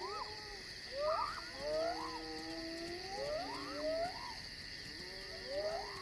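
Night chorus: a steady high insect trill under a chorus of repeated animal calls that rise and fall in pitch, several overlapping, in clusters about once a second.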